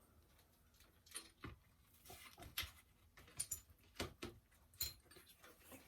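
Faint, scattered clicks and taps of small metal engine parts, push rods and rocker bolts, being handled and set down.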